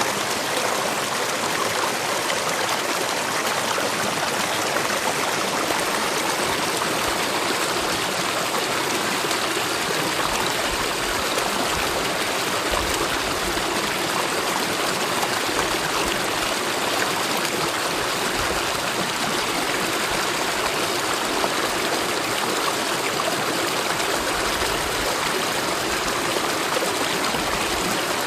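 Mountain valley stream running steadily, an even rush of water with no breaks or changes.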